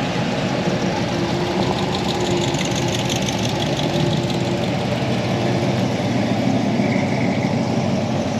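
Classic cars' engines running with a steady rumble as the cars pull out one after another.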